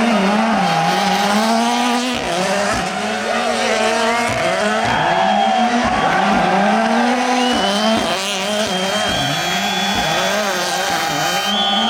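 Rally car engine revving hard, its pitch climbing and dropping back over and over as the driver works the throttle and gears. A thin high squeal joins in the last few seconds.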